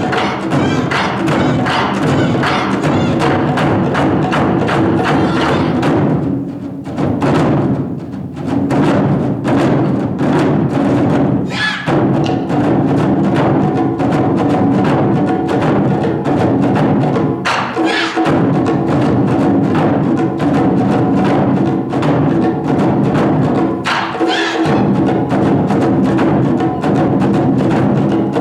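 Taiko drum ensemble playing a fast, dense rhythm over sustained melodic accompaniment, with a brief quieter passage about six to eight seconds in and a few heavy accented strikes after it.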